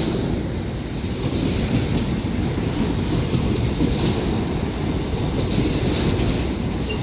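Freight train rolling past: a steady low rumble of wagons on the rails, with faint clicks of wheels passing over rail joints now and then.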